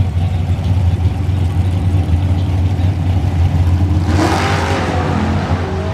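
Car engines rumbling steadily, with one car accelerating hard about four seconds in.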